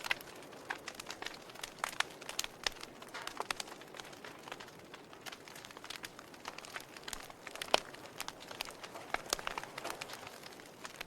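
Wood fire crackling in a fireplace: irregular sharp pops and snaps over a soft steady hiss, with one louder snap about two-thirds of the way through.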